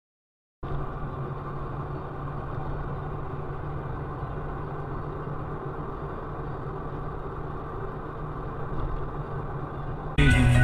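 A vehicle engine running steadily, starting abruptly about half a second in after dead silence. Loud music cuts in suddenly near the end.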